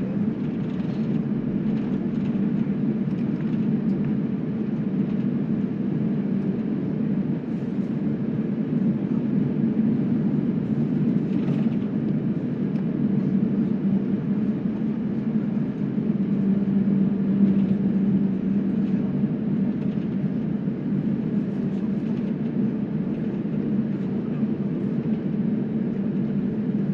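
Jet airliner's engines running steadily, heard from inside the passenger cabin as an even low hum with no spool-up.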